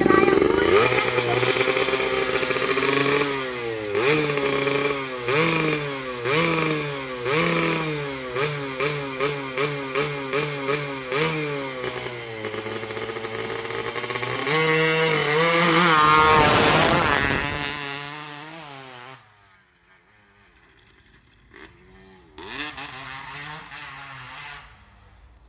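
Motorcycle engine with a racing exhaust being revved: a string of quick throttle blips, about one a second, then a long rev climbing high and dropping away. For the last few seconds it falls much quieter, with a few faint blips.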